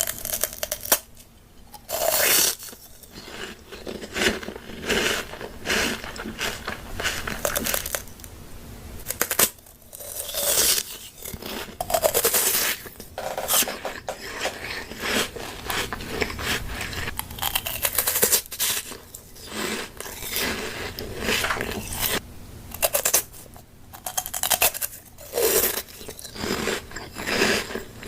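Close-miked eating of crunchy food: repeated crunching bites and chewing with scraping sounds, coming irregularly every second or so.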